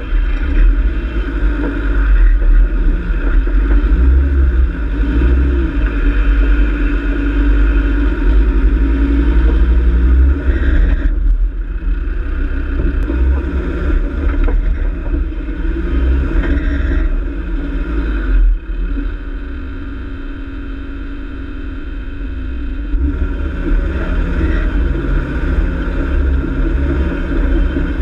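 A 4x4's engine running under light load as the vehicle crawls over a rough, rocky dirt track. The engine is quieter for a few seconds about two-thirds of the way through.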